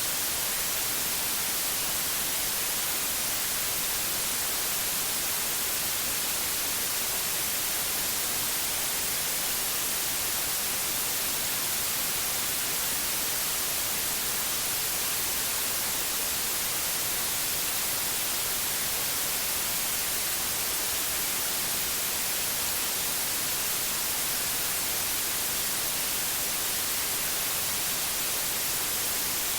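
Steady, unchanging white noise: an even hiss, brighter toward the high end.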